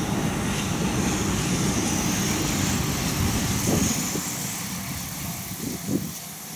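Electric express train passing at speed: a steady rumble of wheels on rail, loudest over the first few seconds and then fading as it moves away, with a faint high whine rising through the middle.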